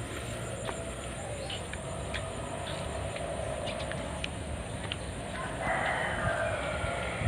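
A fowl-like bird call, one drawn-out call in the last second and a half, over steady outdoor background noise with scattered light clicks.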